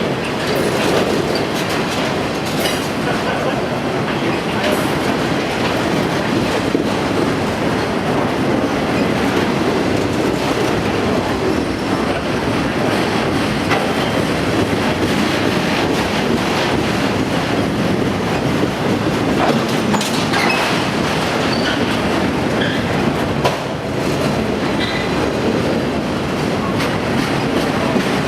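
A train rolling steadily past at trackside, its steel wheels running on the rails with scattered short clicks and a few faint high squeals.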